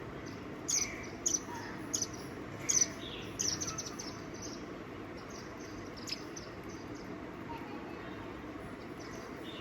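A small bird giving a quick series of short, sharp, high chirps in the first four seconds, then falling quiet, over a steady low background rumble.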